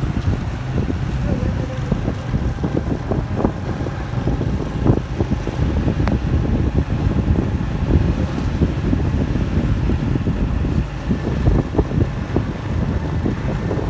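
Wind buffeting the microphone while moving through road traffic: a dense, uneven low rumble with no clear engine tone.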